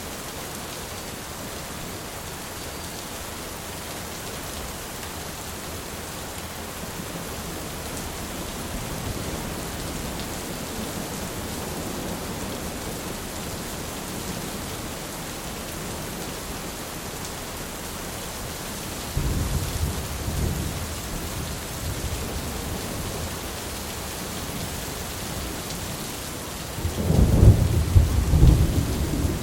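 Steady rain with thunder rumbling twice: once about two-thirds of the way in, and louder near the end.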